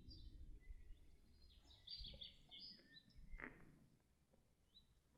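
Songbirds chirping faintly in quick, high notes, clustered in the first three seconds, over a low rumble.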